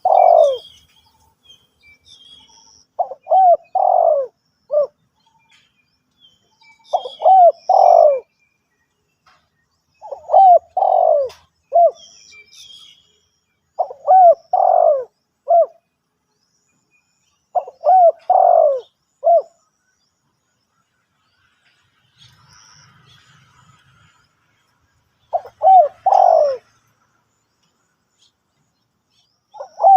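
Spotted dove cooing: a short phrase of several coos, repeated about every four seconds, with one longer pause about two-thirds of the way through. Faint high chirps of small birds sound in the background.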